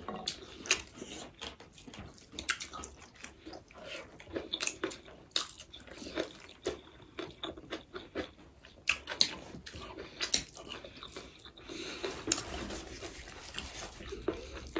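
Close-miked chewing and wet mouth sounds of people eating rice, dal and chicken, with many irregular short clicks and smacks.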